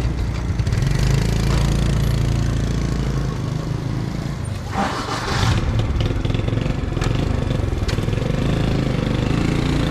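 Motorbike engine running at low speed, a steady low drone that eases off about three seconds in, with a short hiss about five seconds in.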